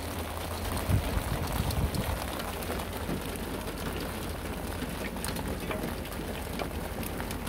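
Rain and hail falling on a van's roof and windows, heard from inside: a dense, steady patter of many small sharp ticks over a low, steady rumble.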